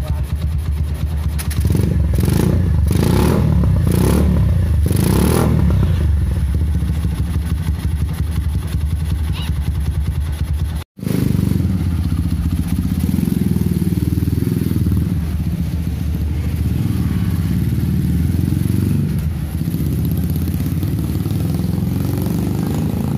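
Honda Megapro motorcycle's single-cylinder engine, bored up to 250cc and fitted with a PDK racing exhaust, running with about five short sharp throttle blips a couple of seconds in. After a sudden break about halfway, it runs on steadily with small rises and falls in revs.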